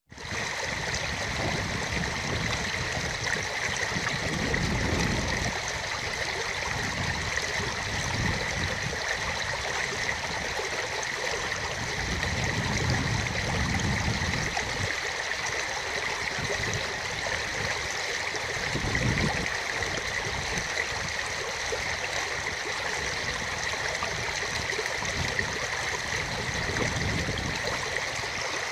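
Steady rush of running water from a stream, with low, uneven wind buffeting on the microphone.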